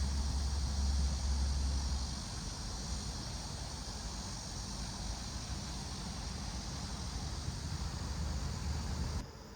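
Outdoor ambience of insects chirping steadily, with a low rumble, likely wind on the microphone, in the first couple of seconds and again near the end.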